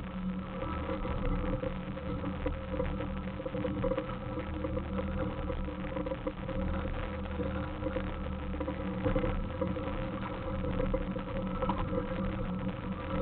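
Suzuki Samurai's four-cylinder engine running steadily at low speed as the truck crawls up a rocky dirt trail.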